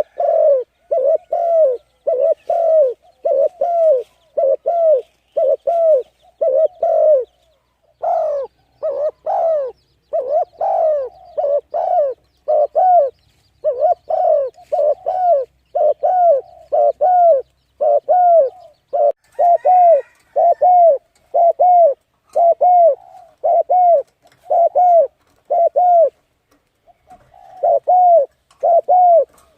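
A bird repeating a short, arched, coo-like note over and over, about two a second, with brief breaks about seven seconds in and near the end. Another bird calls faintly and higher about two-thirds of the way through.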